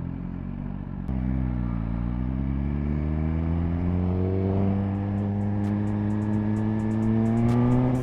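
Suzuki GSX-R1000 sportbike's inline-four engine under the rider: ticking over low for a second, then pulling away, its note rising steadily for several seconds before dropping off near the end.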